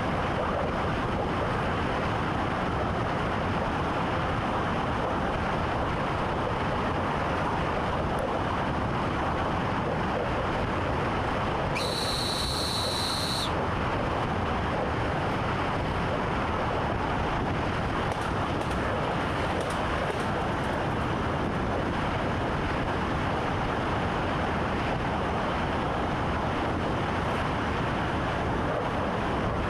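Train running at speed, heard inside the driver's cab: a steady, even rumble and rushing noise. About twelve seconds in, a brief high-pitched tone sounds for about a second and a half.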